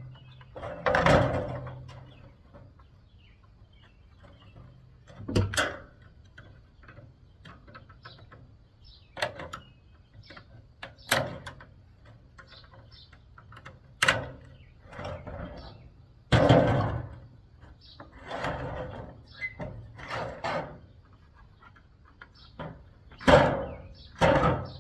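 Metal and plastic parts of an air conditioner clanking, knocking and scraping as the unit is pulled apart by hand: about a dozen separate sharp knocks with longer bouts of scraping and rattling between them.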